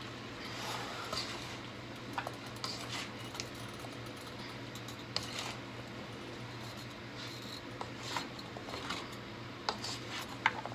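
A utensil clinking and scraping now and then in a pan of stir fry, over a steady low hum.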